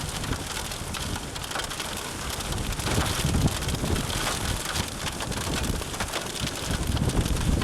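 Wind buffeting the microphone during a thunderstorm, with rain and hailstones falling and many scattered sharp ticks of stones striking.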